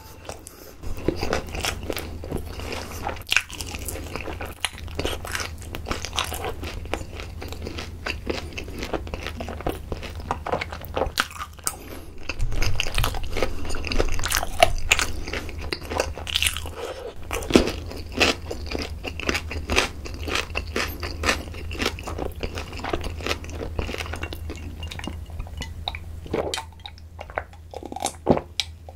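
Close-miked chewing and biting of sauce-coated fried chicken drumsticks: crunchy breading crackling and wet, sticky mouth sounds, continuous and dense. Near the end it gives way to a few separate sounds as a drink of cola is taken.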